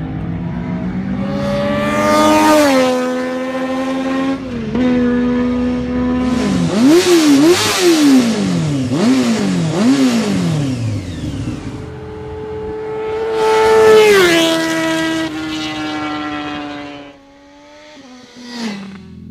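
2013 Triumph 675R's inline three-cylinder engine through an Akrapovic exhaust, revved on the throttle: a rising, held rev, then four quick throttle blips in a row, then another rev that falls back off. It drops to a quieter idle near the end.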